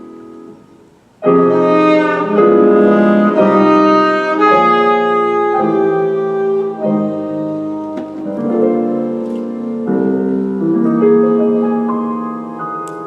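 Alto saxophone and piano playing jazz. A piano chord dies away, then about a second in both come in together with long held melody notes over piano chords.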